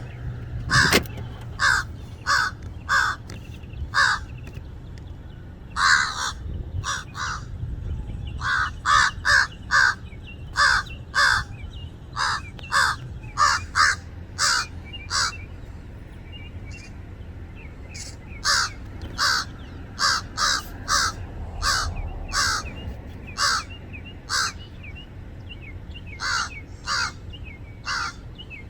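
Crows cawing over and over in quick runs of short harsh calls, an alarm chorus of birds mobbing an owl.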